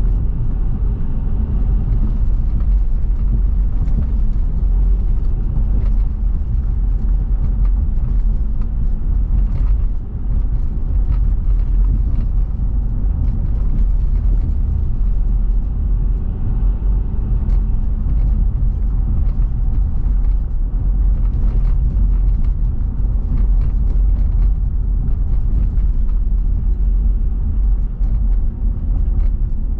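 Car driving at steady speed: a continuous low rumble of road and engine noise, with a few faint ticks.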